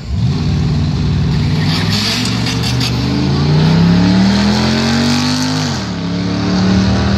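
A Chrysler 300 SRT8's V8 at full throttle launching off a drag-strip start line alongside a Honda Civic. The engine note climbs steadily, falls sharply at an upshift about five and a half seconds in, then pulls on.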